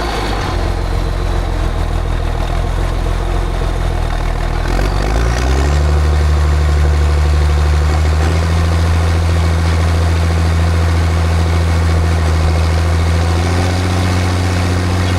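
John Deere tractor engine running steadily, then revving up about five seconds in and holding at the higher speed.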